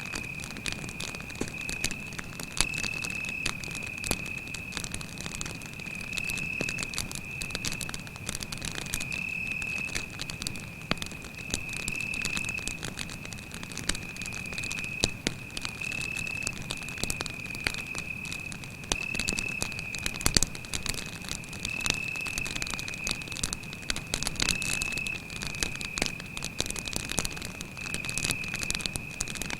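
Campfire crackling, with frequent sharp pops over a low rumble of flames, and a cricket trilling on one steady high note.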